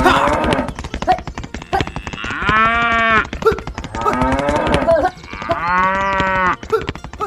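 A cow mooing twice, each moo a long steady call lasting under a second, over a busy patter of clicks and knocks.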